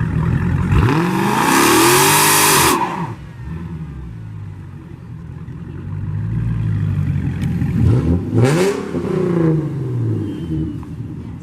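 A car engine revved hard twice, each rev rising and then falling in pitch over about two seconds. The first rev carries a longer, louder rush of noise.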